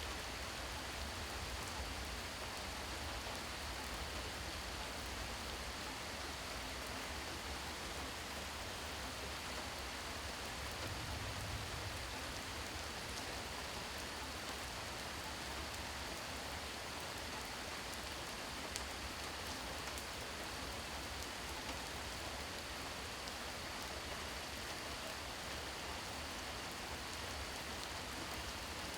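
Steady rain falling, an even hiss with a few single drops ticking out of it and a low rumble underneath.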